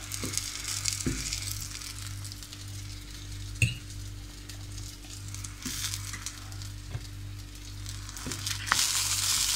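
Courgette slices sizzling in a frying pan, a steady hiss that swells near the end. A few light clicks of a fork against the pan and plate.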